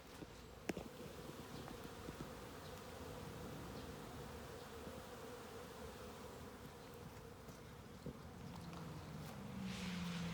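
Honeybees buzzing at their hives: a faint, steady hum, joined near the end by a lower, louder buzz. A single sharp click sounds just under a second in.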